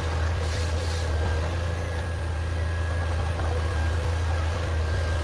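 Heavy forestry machine's diesel engine running steadily, a constant low drone with a faint steady whine above it.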